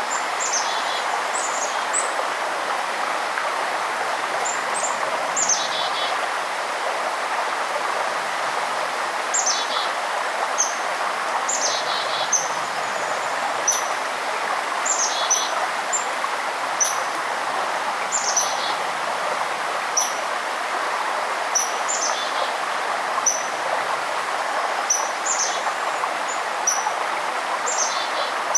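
Steady rush of flowing river water, with a small songbird giving short, high chirps and brief trills over it every second or two.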